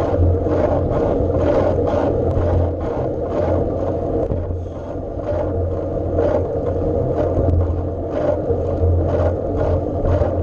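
Steady rumble and wind noise of a bike ride on the move, with a faint regular ticking a few times a second.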